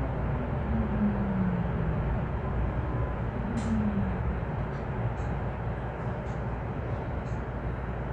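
VTA light rail train running, heard from inside the car: a steady rumble with a whine that falls in pitch twice, once near the start and again about halfway, and a few faint clicks later on.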